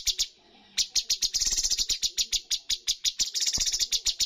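Cucak cungkok singing: fast runs of short, sharp repeated notes, about eight a second, broken by a short pause just after the start.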